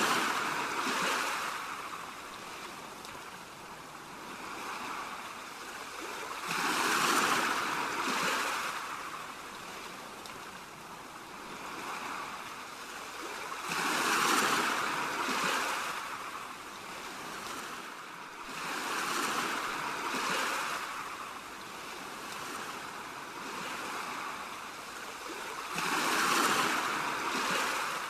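Ocean waves washing onto a shore, the sound swelling and falling away about every six to seven seconds.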